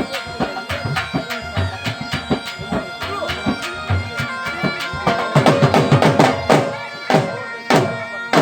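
Bagpipes playing a tune over a steady drone, with drums beating fast beneath; the drumming grows louder about five seconds in.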